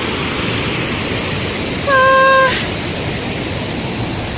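Steady rushing of a waterfall, with a brief high call held on one pitch about two seconds in.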